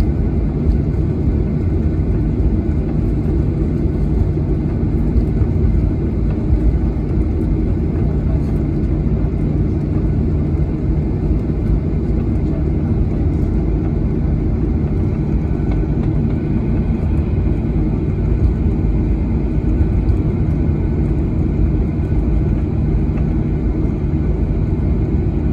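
Steady, loud cabin noise of a Boeing 737-800 airliner: a low, even rumble of engines and airflow heard from inside the cabin. A faint high steady tone joins it about halfway through.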